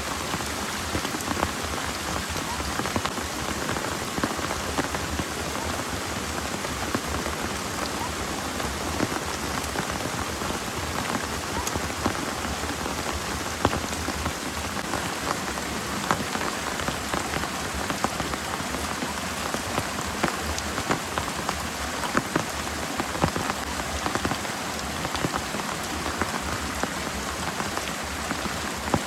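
Heavy rain pouring steadily, with many close drops striking a surface as sharp ticks over the dense hiss of the downpour.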